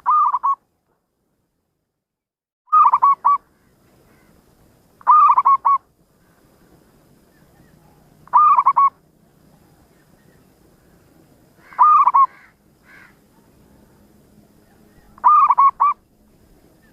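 Zebra dove (perkutut) cooing: a short phrase of three or four quick notes, repeated six times at intervals of about three seconds.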